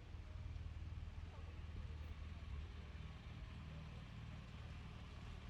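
Faint city street ambience: a steady low rumble of traffic with a light hiss over it.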